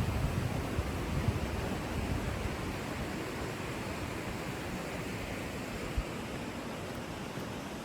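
Steady rushing of a stream's flowing water, with some low wind buffeting on the microphone in the first couple of seconds.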